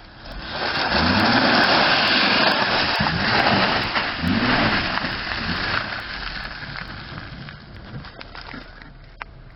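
Acura MDX SUV's 3.7-litre V6 engine revving up and down in several swells under a loud rushing noise as it drives off-road, then fading over the last few seconds.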